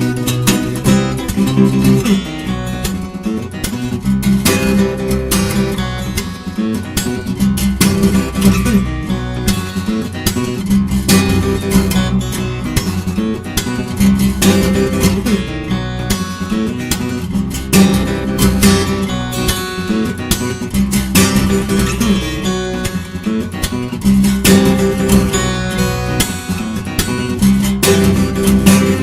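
Acoustic guitar played fingerstyle: plucked melody over a bass line, with frequent sharp attacks and some strummed chords.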